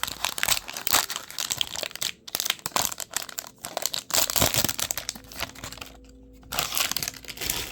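Wrapper of a baseball card pack crinkling and tearing as it is opened, in dense irregular crackles with a short pause near the end.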